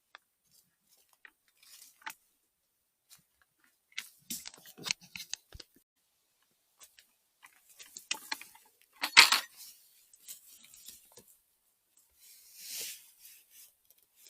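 Footsteps through dry forest litter, with irregular crunching and crackling of twigs and leaves underfoot. A sharp crack comes about nine seconds in, and brush rustles near the end.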